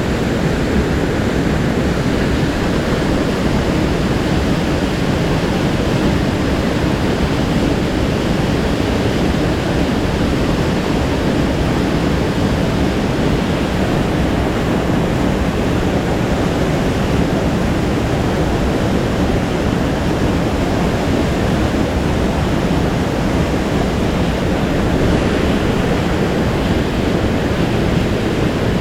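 Steady, even rush of a fast-flowing mountain stream's water, loud and unbroken, heaviest in the low range.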